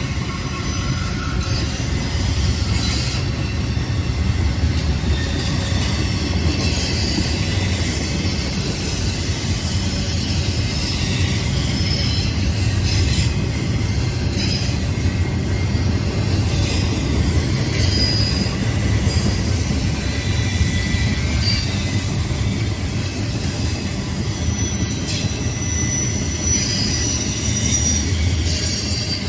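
Freight train rolling past on steel rails, with a steady low rumble and short high-pitched wheel squeals coming and going, plus occasional clicks from the wheels and couplings.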